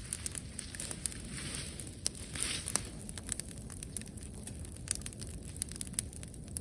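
Wood bonfire crackling, with sharp pops scattered irregularly throughout and two brief hissing swells in the first half.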